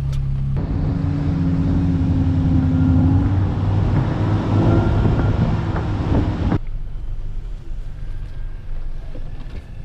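An off-road truck engine running steadily, with heavy wind buffeting the microphone for most of the first seven seconds before cutting off abruptly.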